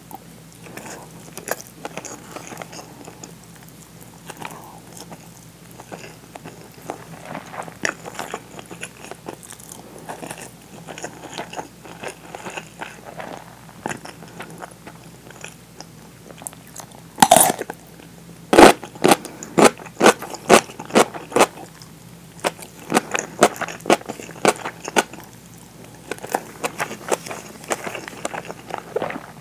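Close-miked chewing of rice, soft and irregular, then from a little past halfway a person biting into pickled daikon: two loud bites, then a run of crisp crunches at about two a second that eases off and picks up again near the end.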